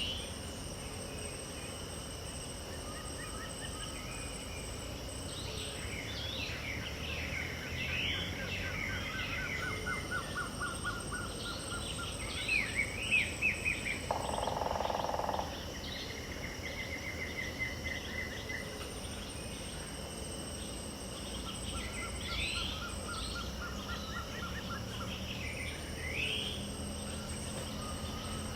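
Dawn chorus of mixed wild birds, with many short chirping and sweeping calls, over a steady drone of insects and a recurring high insect buzz every few seconds. About halfway through comes a louder cluster of bird calls, ending in a brief harsh, noisy call, the loudest sound.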